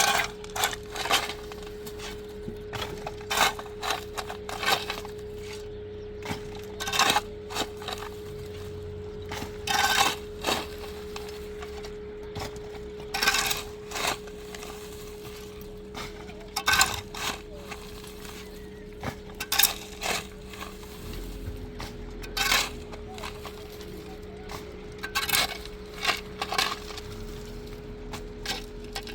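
An irregular series of sharp knocks and clinks, often a second or two apart, over a steady hum. A low drone joins about two-thirds of the way through.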